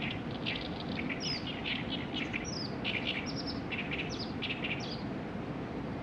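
Small birds chirping in quick runs of short, high notes, which die away about five seconds in, over a steady low outdoor rumble.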